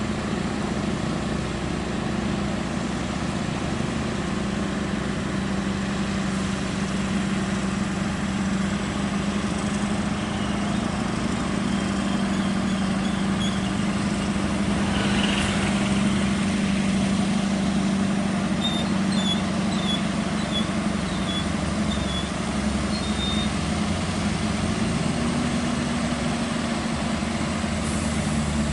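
Heavy truck's diesel engine running steadily at a constant note, shifting slightly near the end.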